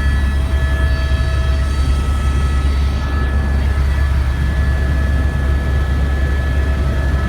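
Helicopter in flight: a loud, steady low drone of rotor and engine, with a constant high turbine whine over it.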